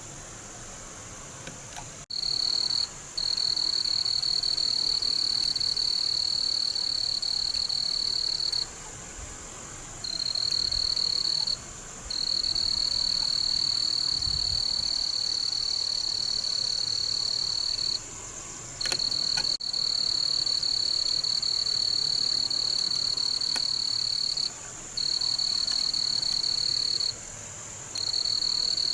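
A high, even buzzing trill from a calling frog or insect close by, going on in long stretches of a few seconds with short breaks, over a fainter, steady, higher-pitched chorus in the background.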